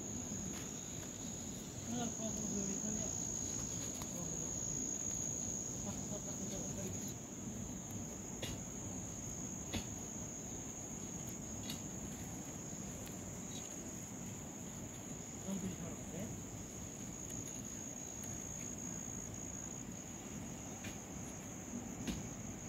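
Insects trilling steadily at one high pitch without a break.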